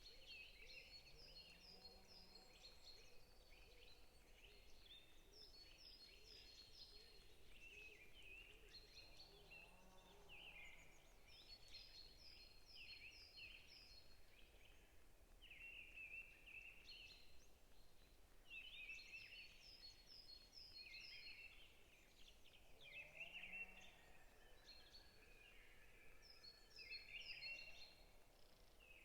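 Several forest songbirds chirping and singing, faint, with repeated runs of short high notes. A low, short call comes three times.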